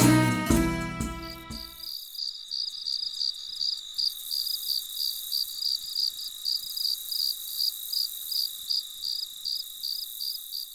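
Background music ends about two seconds in. Then an insect, typical of a cricket, chirps steadily at about three high-pitched chirps a second.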